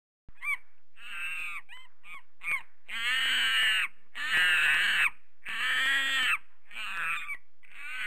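A bird giving a series of loud, harsh calls: a few short ones at first, then longer drawn-out calls of nearly a second each, about one every second and a half.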